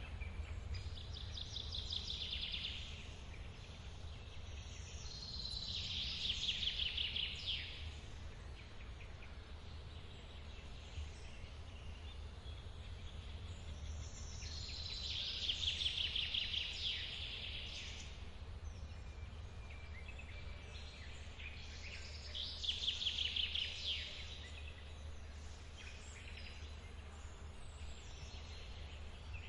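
Forest waterfall giving a low, steady rush of water, with a bird singing four bouts of rapid, trilling phrases a few seconds long.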